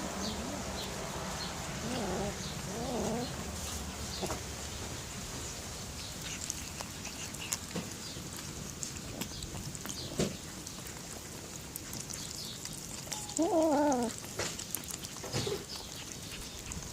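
Cats growling and yowling as they eat, a few short wavering calls with the loudest about three-quarters of the way through.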